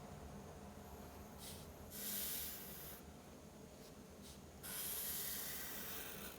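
Strokes of a drawing tool scratching across paper: a brief one about one and a half seconds in, a second-long stroke at about two seconds, and a longer stroke starting just before five seconds.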